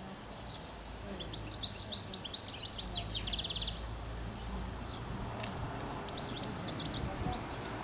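Small songbirds chirping and twittering over a low rumble. A flurry of quick high calls comes about a second and a half in, ending in a fast trill near three seconds, and another short run of chirps comes near the end.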